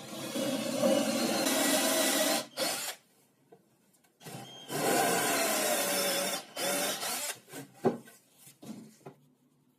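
A power tool working on wood in two stretches of about two seconds each, followed by several short bursts.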